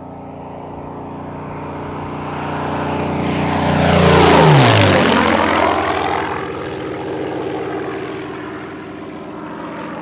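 Yakovlev Yak-3 fighter's propeller and piston engine making a fast fly-past: the sound builds up, is loudest about four and a half seconds in, then drops sharply in pitch as the aircraft goes by and fades away.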